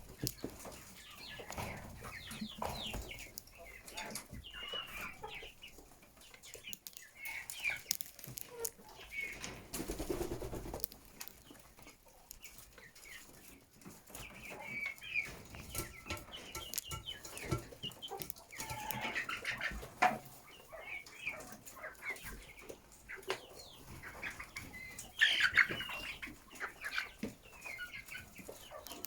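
A flock of chickens clucking and calling in short, irregular bursts, with scattered sharp clicks and a louder cluster of calls near the end.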